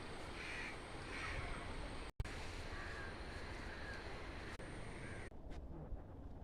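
A crow cawing faintly, a few short calls over a steady background hiss: two in the first second and a half, two fainter ones around three seconds in.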